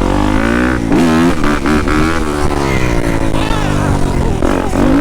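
Yamaha YZ250F dirt bike's four-stroke single-cylinder engine under way, revving up. The pitch drops sharply about a second in as it shifts up, then climbs again. It eases off through the middle and picks up again near the end.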